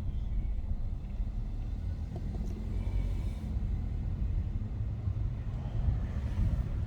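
Car moving along a road, heard from inside the cabin: a steady low rumble of road and engine noise.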